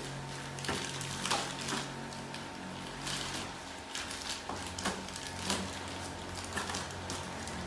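Scattered light clicks and knocks, a few each second, from handling work during an air-conditioner installation, over a steady low hum.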